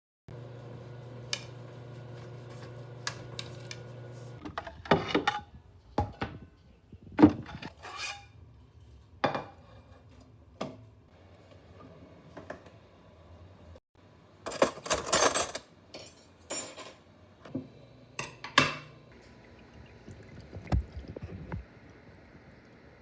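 Dishes and cutlery clinking and knocking in a string of separate hits, with a steady low hum through the first four seconds.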